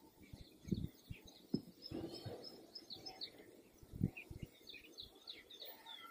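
Faint birds chirping in the background, many short high chirps throughout, with a few soft low thumps.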